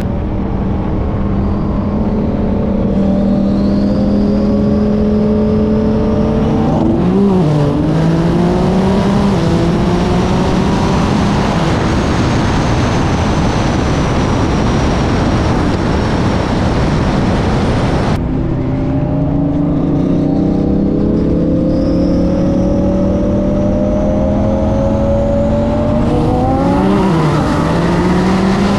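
Car engine at full throttle in a highway roll race, its pitch climbing steadily and dropping sharply at an upshift about seven seconds in and again near the end, over heavy wind rush. About eighteen seconds in the sound changes abruptly and the climb starts over from a lower pitch.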